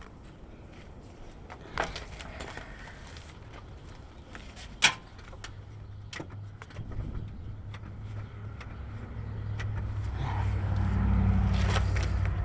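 A few sharp clicks, then a low, steady drone from the 1980 Ford F100's 302 V8 being cranked by its starter. The drone builds over several seconds and the engine does not catch, as the owner suspects it is flooded.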